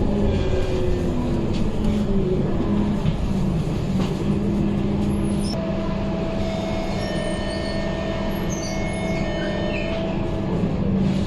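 Scania K230UB bus engine slowing to a steady idle, with its loud radiator fan humming steadily. A higher steady whine joins about halfway through for a few seconds.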